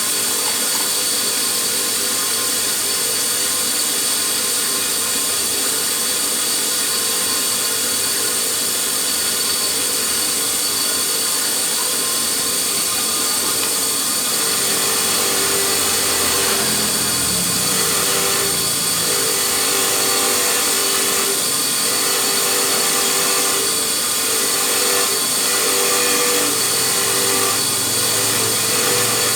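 An electric power tool's motor running continuously with a steady high whine, its pitch shifting a little under changing load from about halfway through.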